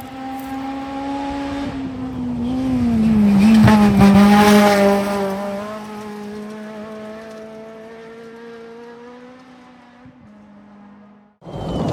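Rally car at full throttle on a gravel stage, passing close. It is loudest about four seconds in, with gravel and tyre noise, and its engine note drops as it goes by, then fades away. Near the end the sound cuts off sharply and another car's engine comes in.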